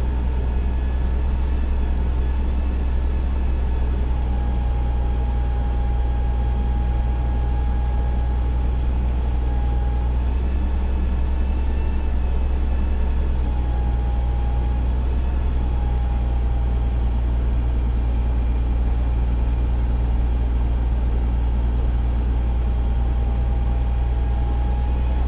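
Fire engine's engine running steadily: a low drone with a steady high whine over it that wavers slightly in pitch.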